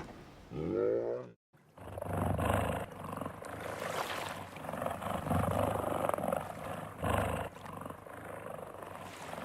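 A large animal growling and roaring in rough, low calls that rise and fall for several seconds, after a short pitched call near the start.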